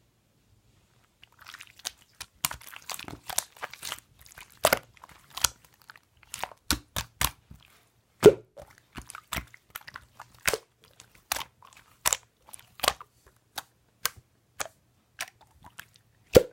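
Slime being squeezed and poked by hand, giving a string of sharp, wet clicking pops. They begin about a second in and come irregularly, one or two a second.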